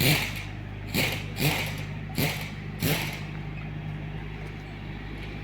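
Steady low drone of a vehicle engine on the highway, with five short noisy bursts in the first three seconds.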